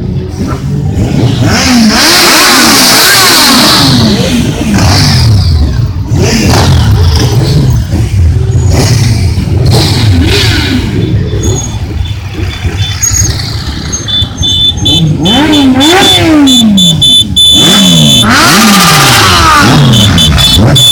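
Several motorcycles running hard on a race circuit, their engines revving up through the gears in repeated rising runs and dropping in pitch as they go past.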